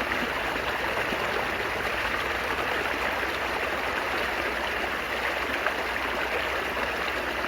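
Flowing water babbling steadily, an even, unbroken rush with a fine trickling texture.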